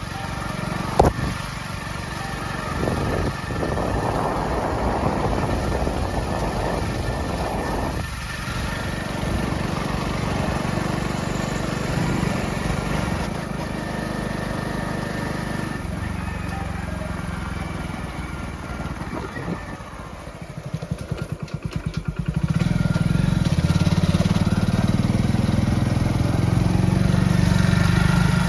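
Motorcycle engine running under way, with wind and road noise. About 20 seconds in it drops to a slow, even putter, then picks up and runs louder from about 22 seconds.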